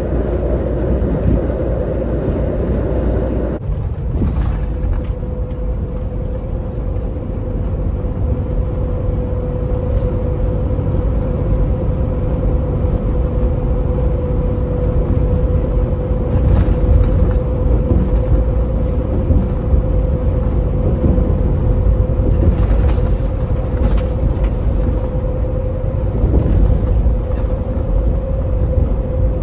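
Semi-truck cruising at highway speed: a steady drone of engine and road noise. A few seconds in, a steady hum sets in and holds.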